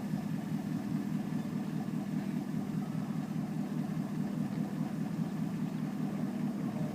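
An engine running steadily with an even low hum that does not rise or fall.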